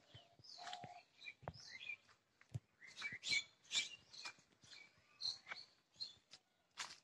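Small birds chirping and twittering repeatedly, faint, with a few sharp knocks scattered through.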